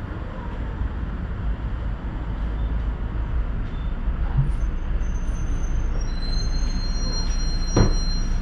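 Tram running along the track: a steady low rumble of wheels on the rails. From about six seconds in a thin high whine joins it, and a single sharp knock comes near the end.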